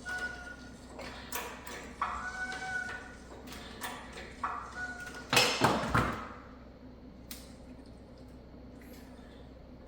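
Engine-hoist work under a car: short flat squeaks about every two seconds among light metallic clicks and knocks, with a louder clatter of metal about five seconds in, as the engine's weight is taken up.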